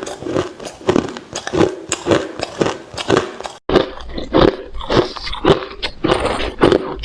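Crushed ice being chewed close to the microphone: hard, rapid crunches, about three a second. A brief break about halfway through leads into another chewer, with a low hum underneath.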